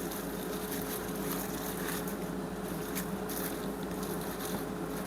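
Steady hum of a small electric fan motor, with a few faint light clicks.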